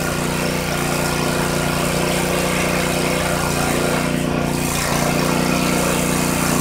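Airless paint sprayer running steadily, a constant motor hum with a steady low pitch.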